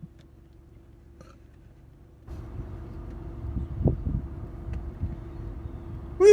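A person making a low, noisy mouth sound, starting about two seconds in and swelling once near the middle, as a silly noise in a try-not-to-laugh game.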